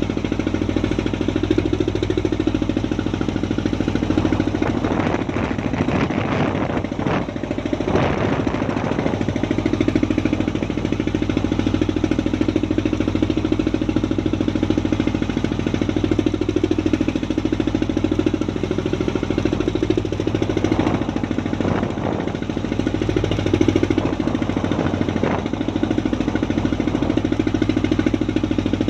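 A fishing boat's engine running steadily with a fast, hard knocking beat. A rushing noise swells over it twice, about five seconds in and again about twenty-one seconds in.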